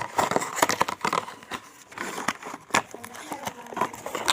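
Packaging of a combined power socket being handled and opened: crinkling with many irregular small clicks and knocks.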